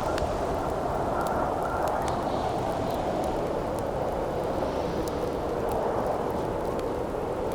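Steady howling wind, its pitch wavering slightly, with the sharp crackles and pops of a wood campfire scattered over it.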